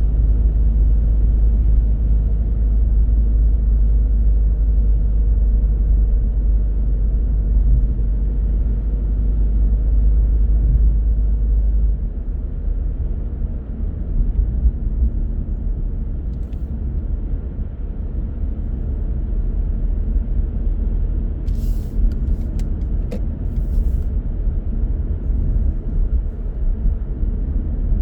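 Car driving on the road: a steady low rumble of tyres and engine, easing slightly about twelve seconds in, with a few short clicks near the end.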